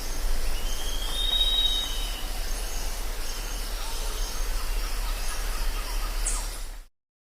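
Jungle ambience: a steady hiss of insects with short high chirps from birds and insects over a low hum. A drawn-out high whistle rises and falls about a second in. The sound cuts off abruptly near the end.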